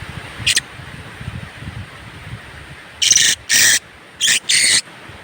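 Philippine hanging parrots (kulasisi) calling: a short harsh screech about half a second in, then four more shrill screeches in two quick pairs from about three seconds in.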